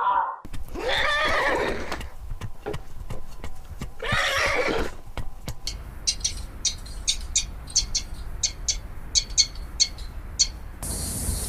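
Horse whinnying twice, then hooves clip-clopping in an even rhythm of about two to three beats a second.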